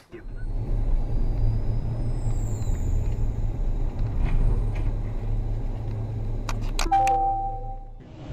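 Steady low rumble of a car moving on the road. About six and a half seconds in come a few sharp knocks, then a ringing chime-like tone that lasts about a second.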